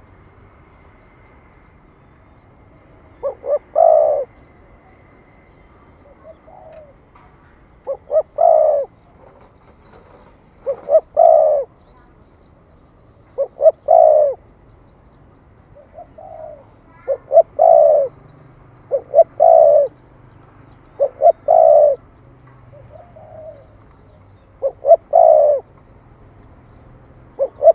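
Spotted dove cooing in the 'thổ thúc gù' voice: a phrase of two or three short notes and a longer coo, repeated about every three seconds from about three seconds in, with a few softer single notes between some phrases.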